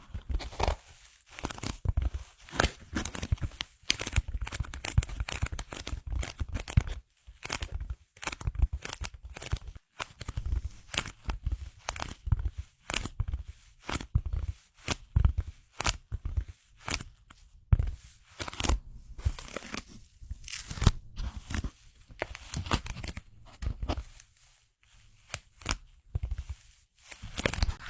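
Close-up tearing and crackling: a dense run of sharp snaps and crinkles in quick succession, broken by short pauses.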